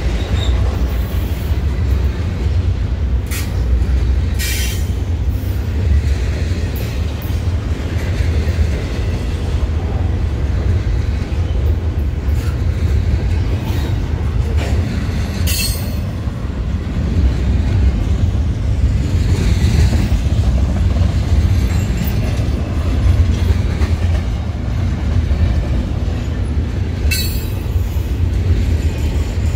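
Double-stack container freight train's cars rolling past close by: a loud, steady low rumble of wheels on rail, broken by brief high-pitched squeals from the passing cars about four times.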